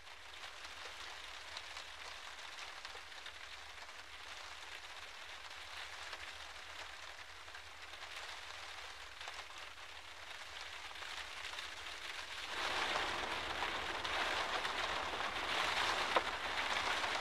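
Steady rain falling, an even hiss flecked with the ticks of single drops, growing clearly heavier and louder about two-thirds of the way through.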